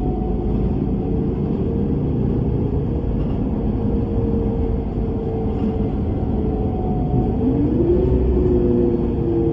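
Bus running with a steady low engine rumble and a drivetrain whine. The whine climbs in pitch about seven seconds in as the bus speeds up.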